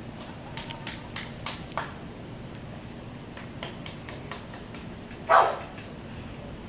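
A dog barks once, loudly and briefly, about five seconds in, after a few scattered short clicks and scuffs.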